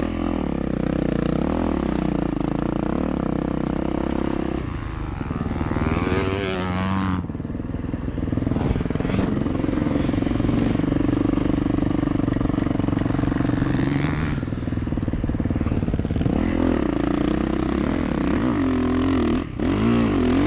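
Motocross dirt bike engine running under riding, its pitch rising and falling with the throttle, with a brief cut in the sound near the end.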